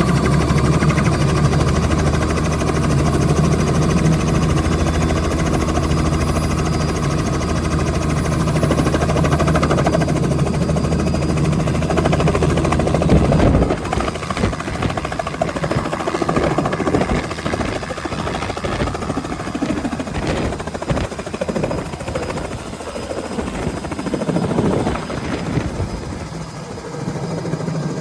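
Helicopter running close by with a steady low engine and rotor hum. About halfway through this gives way to uneven rushing and buffeting noise as the helicopter lifts off and its rotor wash blows across.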